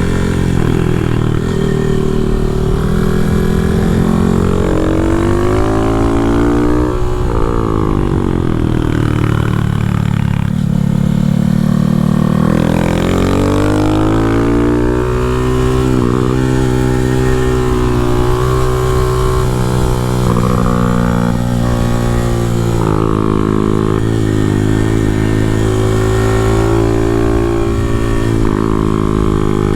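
Small motorcycle engine running hard, its revs rising and falling again and again as it is ridden.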